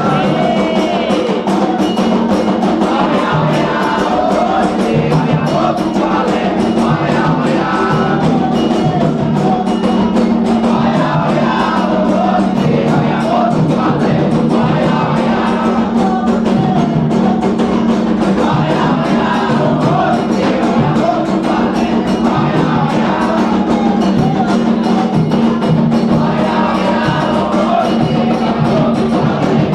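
Candomblé ceremonial music: atabaque hand drums beating a fast, steady rhythm under a group singing a chant for the orixá Oyá.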